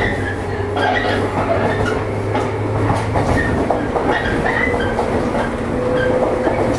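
JR East 115 series electric train running, heard from inside the car: wheels on rail with irregular clacks and knocks, over a steady low hum that stops about three seconds in.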